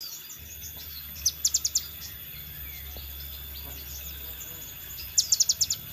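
Scarlet minivet calling: two quick bursts of five or six sharp, high notes about four seconds apart. Fainter chirping and a low steady hum run underneath.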